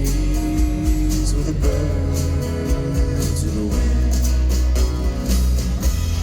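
Live acoustic country music: guitar played over a deep bass line.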